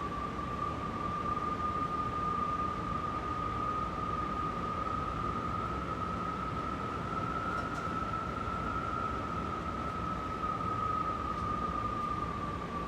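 Strong wind rushing steadily, with a single sustained howling whistle over it that rises a little in pitch around the middle and starts to sink near the end.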